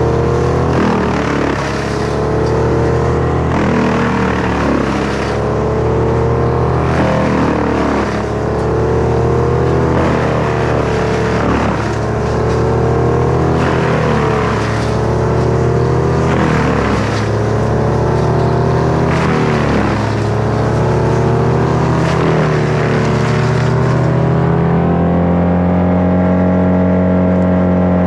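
A gasoline engine of tree-work equipment running hard. It repeatedly bogs down under load about every couple of seconds and picks back up. Near the end it settles into a steady, even run.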